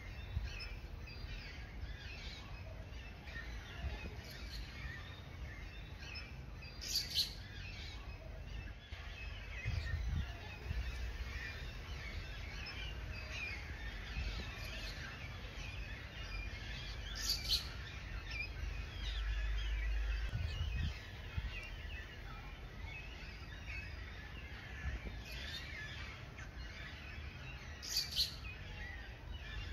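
Many small bird chirps and calls over a steady outdoor ambience with a low rumble. A brighter, sharper call stands out about every ten seconds.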